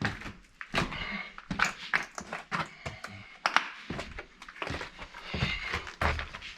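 Footsteps and scuffs with irregular knocks, several a second, inside a small room.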